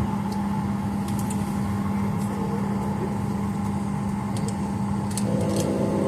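Steady airliner cabin hum in a Boeing 737-900ER, the air-conditioning and ventilation running with a constant low drone and a higher steady tone, with a few faint ticks. About five seconds in, a further set of steady pitched tones joins the hum.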